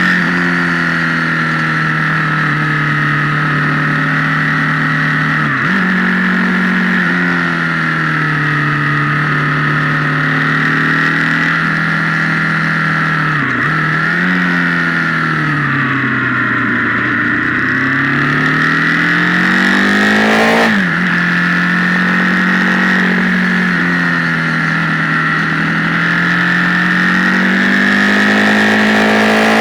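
Motorcycle engine heard from an onboard camera, its sound distorted as if played through an amplifier, pulling at a steady pitch. The pitch briefly drops and recovers several times, and about halfway through it falls and climbs again more slowly.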